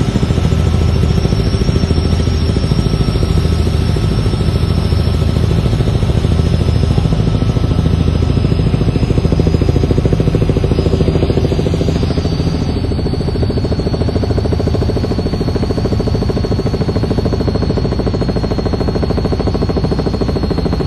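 An engine running steadily with a pulsing low drone and a thin high whine that drifts slowly lower.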